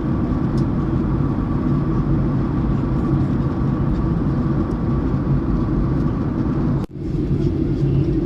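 Steady airliner cabin noise in flight, a low drone of engines and airflow with a faint steady whine. It drops out abruptly for a moment about seven seconds in.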